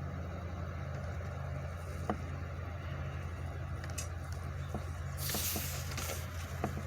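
Truck engine idling with a steady low hum, a few scattered knocks, and a brief hiss lasting about a second that starts about five seconds in.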